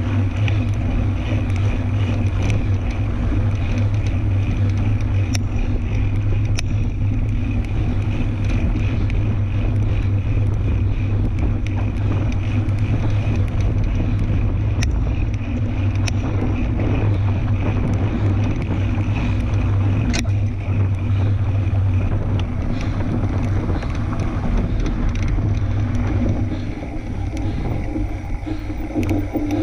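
Riding noise from a fat-tire tandem bike on a dirt trail: steady wind noise on the microphone over tyre rumble, with scattered sharp clicks and rattles from the bike and trail.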